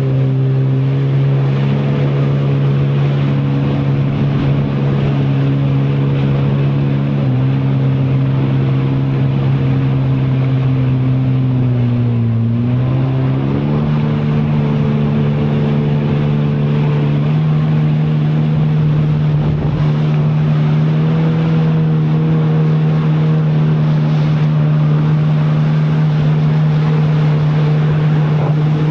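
Jet ski engine running hard at steady high revs over a constant rushing noise. The revs drop briefly and pick up again about twelve seconds in.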